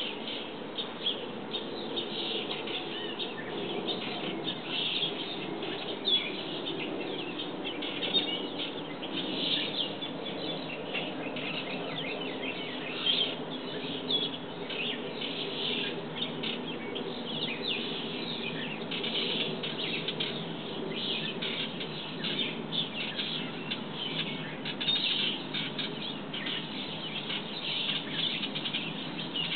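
Birds chirping continuously in many short, overlapping calls, over a steady low background hum.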